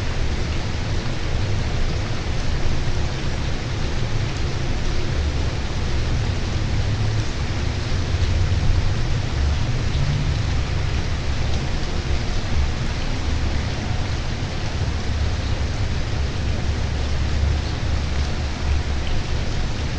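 Steady rain falling, a continuous even hiss, over an unsteady low rumble.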